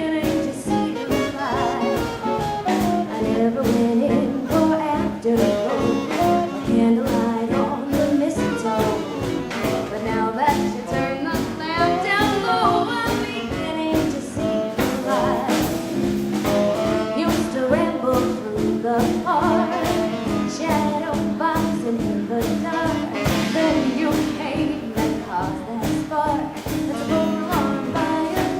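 Live swing band playing a 1940s-style number, horns carrying the melody over a steady drum beat.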